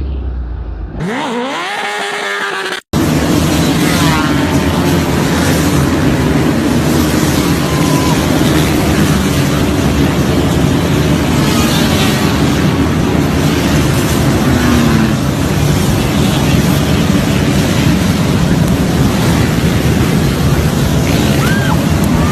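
Off-road motorcycle and quad engines running and revving. About three seconds in, an abrupt cut leads to a denser, steady engine noise.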